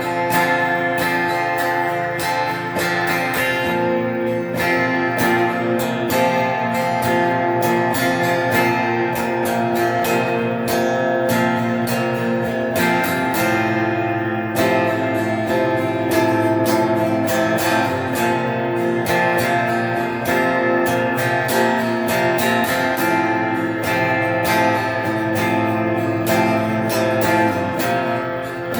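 Electric guitar played through an amp with reverb, strummed and picked chords in a clean tone.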